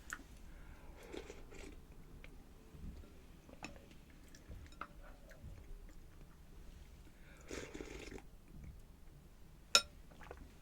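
Close-miked chewing and mouth sounds of a person eating, with soft wet clicks and two longer bouts of chewing. A single sharp click near the end is the loudest sound.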